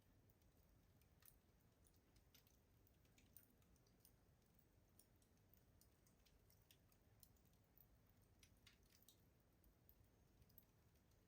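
Faint wood fire crackling in a rustic stove: small, sharp pops and snaps at irregular intervals over a low hiss.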